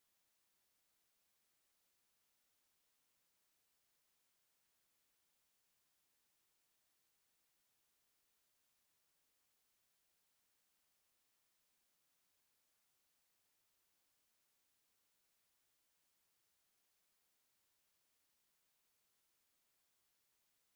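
A steady, very high-pitched pure sine tone at 11041 Hz, held unchanged at one level: a speaker test tone.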